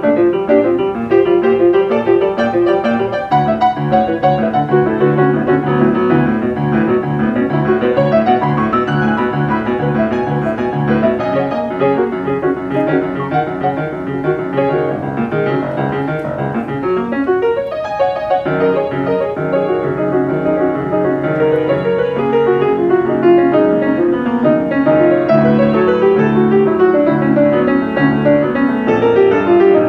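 Solo jazz piano improvisation: continuous chords and melodic lines, with a quick flourish of fast notes a little past halfway.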